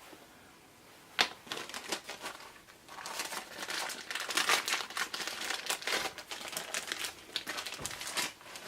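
Crinkling and rustling as the power steering pump's old seal and the new seal-kit parts are handled. A sharp click comes about a second in, and the crackly rustling is busiest from about three seconds in until near the end.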